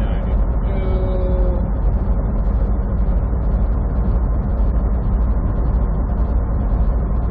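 Semi truck's engine and road noise heard from inside the cab while driving: a steady, low drone.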